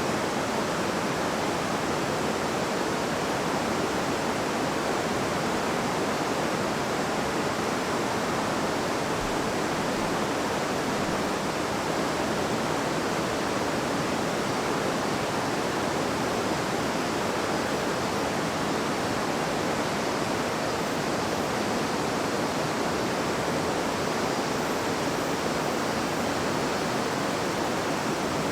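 A river's water flowing and babbling as a steady, even rush with no breaks.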